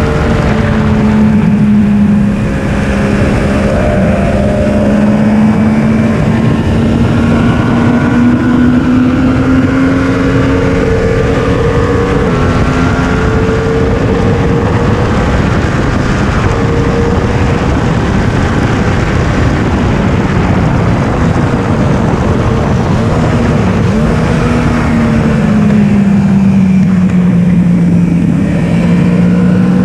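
Yamaha R1's inline-four engine running hard under load, picked up by the onboard camera. Its pitch climbs slowly for about ten seconds, wavers, drops briefly near the end and climbs again, over a steady rush of wind noise.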